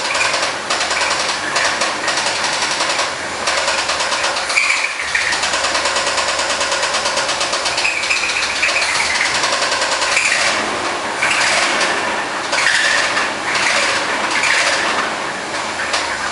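Chevrolet 350 small-block V8 of a 1972 Corvette running with a fast, steady rhythmic knock, which the owner takes for a connecting rod slapping: the sign of a spun crankshaft bearing.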